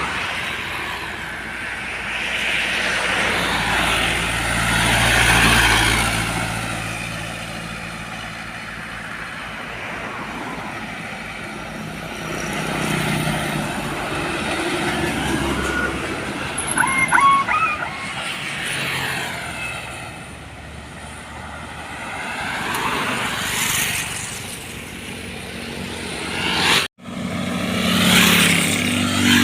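Trucks and other road traffic passing one after another, engine and tyre noise swelling and fading as each goes by. About seventeen seconds in there is a brief high-pitched tone, and the sound breaks off abruptly near the end at an edit.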